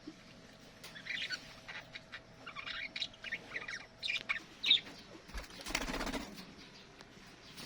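Budgerigars chirping in short, quick high calls, with a short rustle about six seconds in.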